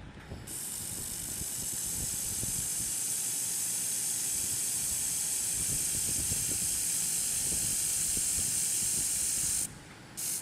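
Laser welding gun hissing steadily while it welds, the hiss of its shielding gas at the nozzle. It cuts off near the end and comes back in a short burst.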